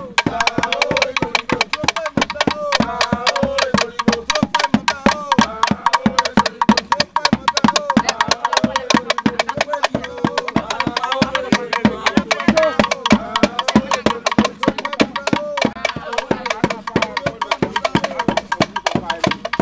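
Owigiri music: fast, dense traditional drum and wood-block percussion with voices singing over it.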